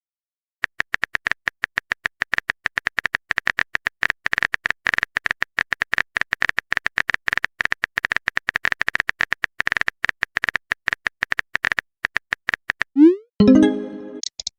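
Phone keyboard typing sound effect: rapid, irregular taps for about eleven seconds. Near the end a short rising swoosh is followed by a brief pitched notification tone.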